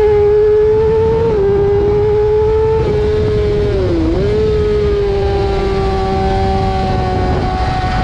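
Motorcycle engine running at high, nearly steady revs, its pitch dipping briefly and coming back up about four seconds in, over a rough low rumble.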